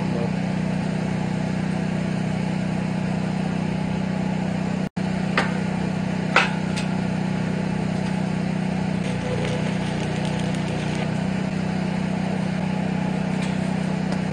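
A steady, engine-like low machine hum, with two short sharp metallic clicks a little past the middle.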